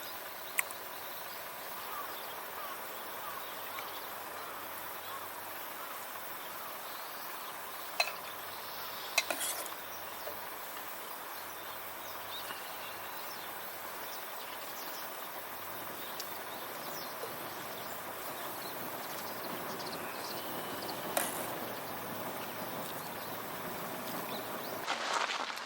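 Wood campfire burning: a steady hiss with four sharp pops from the burning wood, and a louder rustle right at the end.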